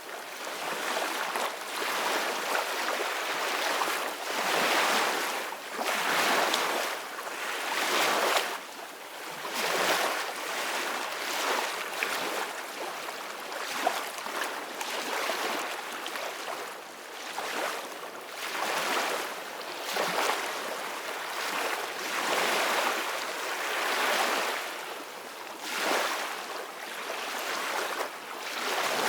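Ocean waves washing on a beach: a steady hiss of surf that swells and fades every second or two.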